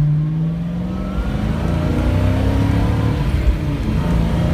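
A 1970 Ford Boss 302 Mustang's V8 pulling hard under acceleration, heard from inside the car. The engine note dips about a second in, then climbs steadily as the car gathers speed.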